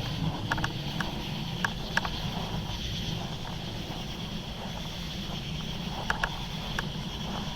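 Steady low hum of camera noise under a constant high insect drone, with a few sharp clicks scattered through it.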